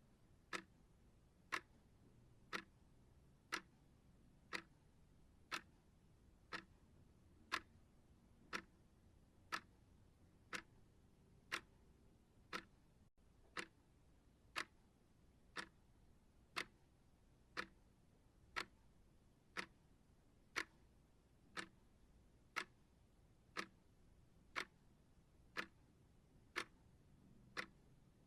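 Clock-style timer ticking steadily, one short, sharp tick every second, faint and even.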